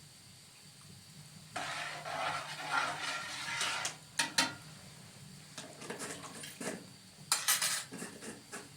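Dishes and cutlery being handled. There is a stretch of scraping and clattering starting about a second and a half in, followed by a few sharp clinks and short scrapes.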